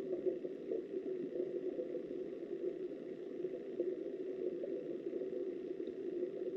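Steady, muffled rush of flowing river water heard underwater through a camera's housing, a dull low hiss with no distinct splashes or other events.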